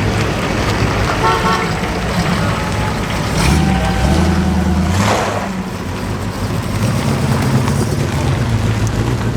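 Car engines running and passing by, with a short horn toot about a second in and one louder engine going past about three to five seconds in.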